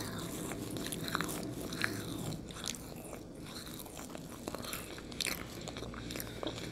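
People chewing and biting marshmallow Peeps: quiet, soft, sticky mouth sounds with many small scattered clicks.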